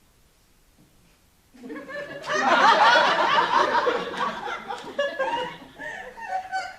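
Audience laughing: a quiet second and a half, then laughter from many people swells up about two seconds in and slowly dies away.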